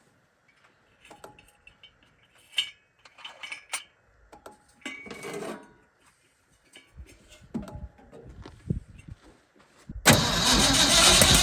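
A few scattered clicks and knocks of handling, then about ten seconds in the starter of an old Ford F100 begins cranking the engine over loudly.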